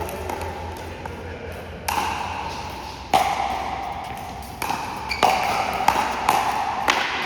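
Pickleball rally: paddles striking the hollow plastic ball, with about seven sharp hits that come closer together toward the end.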